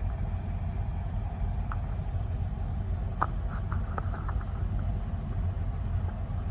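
Steady low rumble of an idling semi-truck diesel engine, with a few faint clicks.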